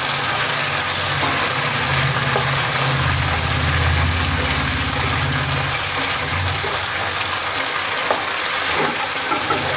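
Cauliflower florets frying in hot oil in a metal kadai: a steady sizzle, with light scrapes of a metal spatula as they are stirred. A low engine-like hum runs underneath, strongest in the middle.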